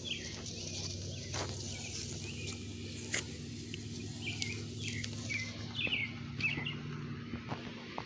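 Birds chirping: short, high chirps every second or two, over a low steady hum and a few soft clicks.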